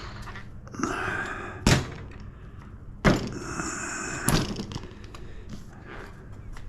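Scrap wood pieces being rummaged through and handled: three sharp knocks of boards against each other, with scraping and rustling between them.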